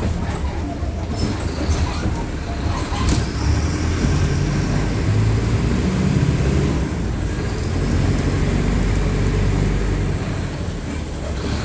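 Mercedes-Benz OF-1519 BlueTec 5 bus's diesel engine running under way: a steady low drone that swells a little in the middle, with light rattles.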